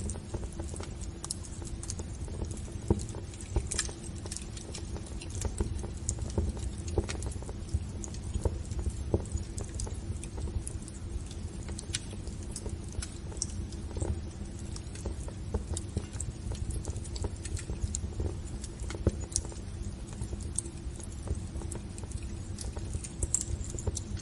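Wood fire crackling in a fireplace: irregular snaps and pops over a low, steady rumble.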